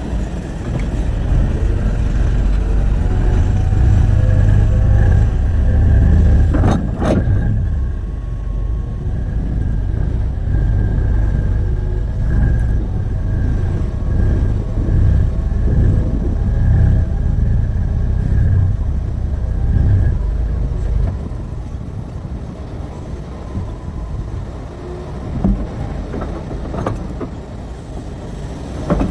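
Diesel engine of a large hydraulic excavator, a Terex RH30F mining shovel, running hard with a deep rumble that swells and eases as it works, dropping lower in the last third. A sharp knock comes about seven seconds in and another near the end.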